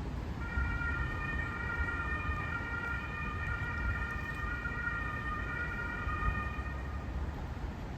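Emergency-vehicle siren sounding for about six and a half seconds, steady in pitch, over low wind rumble on the microphone.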